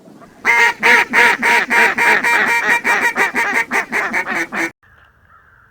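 Duck quacking in a long, quick run of loud calls that grow gradually quieter, then cut off abruptly near the end. It is the descending cadence of a mallard-style hail call.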